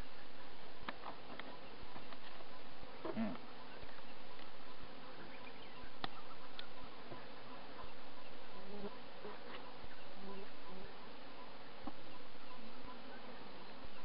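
Honeybee swarm buzzing densely, many bees in the air at once, with a few sharp clicks and a brief falling-pitch sound about three seconds in.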